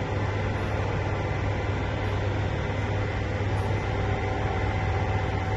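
Steady mechanical hum and rushing noise of a large railway station, with a strong low hum under a few faint steady tones.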